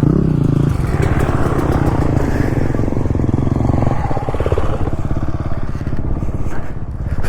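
Dirt bike engine running steadily under throttle while being ridden, with an even, rapid beat of firing pulses.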